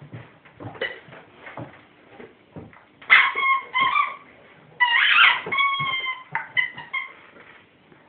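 Rubber squeaky dog toy being bitten and squeezed by a dog, giving a run of squeaks about three seconds in and a longer run from about five to seven seconds in, with soft knocks of the toy and teeth between them.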